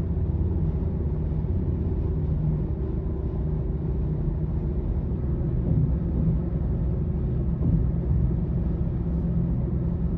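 Steady low rumble of road traffic, with a faint low hum running through it.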